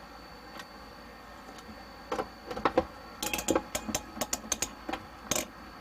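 Irregular clicks and light clatter of small hard parts being handled, starting about two seconds in and getting busier toward the end, over a faint steady background hum.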